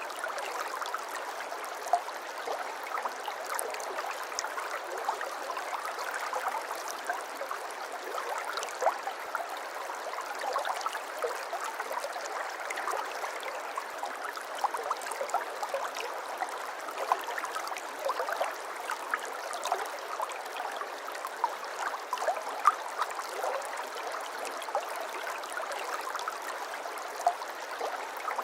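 Water flowing and trickling steadily, a small stream babbling over stones, with many small splashes and drips throughout.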